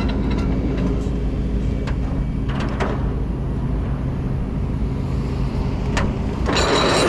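Truck engine running steadily at idle, with a few sharp clicks and a short loud hissing burst near the end.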